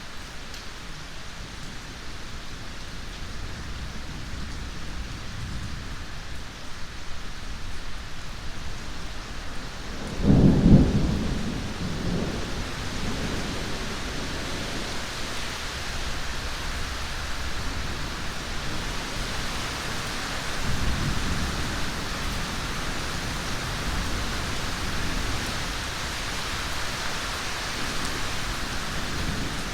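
Steady rain with a loud thunderclap about ten seconds in that rumbles away over a few seconds, and a softer roll of thunder about twenty-one seconds in.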